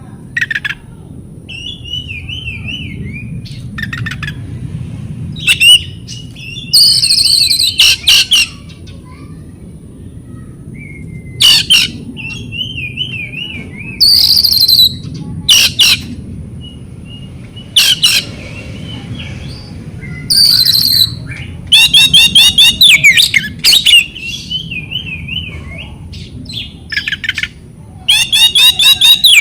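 Oriental magpie-robin singing in loud bursts: harsh, rasping calls and rapid repeated trills broken up by softer warbling phrases. This is the agitated fighting-style song played as a trigger to provoke caged magpie-robins into singing.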